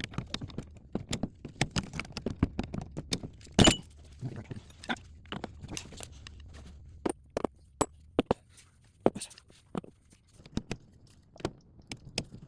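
Metal tools clinking and clicking irregularly on a car's suspension while a stubborn ball joint is forced out with a breaker bar. One sharper, louder knock comes about three and a half seconds in.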